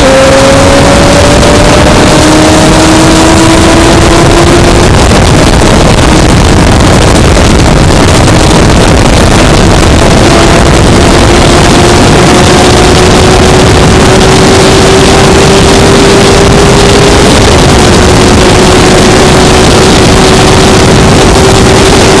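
Honda CBR600F's inline-four engine running at speed, its pitch climbing slowly and levelling off near the end, under heavy wind rush on the microphone.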